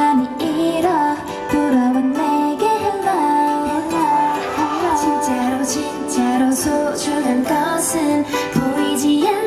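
K-pop song played loudly through a stage sound system, with a woman's voice singing the melody over a band backing of guitar and percussion.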